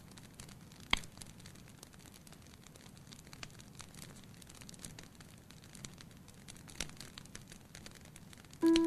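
Wood fire crackling in a fireplace: a steady scatter of small snaps with a louder pop about a second in and another near the end. Plucked, piano-like music notes come in right at the close.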